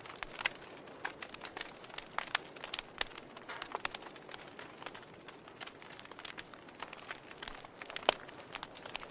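Campfire crackling: irregular sharp pops and snaps of burning wood over a soft steady hiss, with one louder pop near the end.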